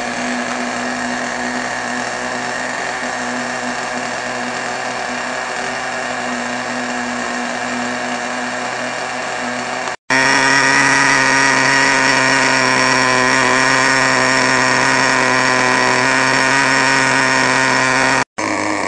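Team Infinity .18 nitro engine in a 1/10 ACME Monster T truck running at a steady idle with no revving, on a rich first-tank break-in setting. The sound cuts out for an instant about ten seconds in and again near the end, and is louder after the first break. The tuner judges it to be running too rich and flooding.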